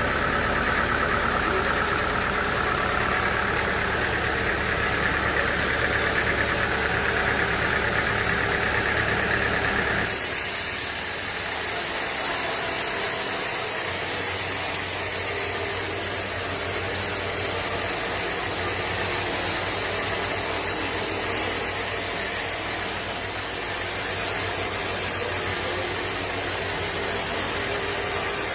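Sawmill machinery running steadily. About ten seconds in the sound changes abruptly to a steadier hiss over a low hum.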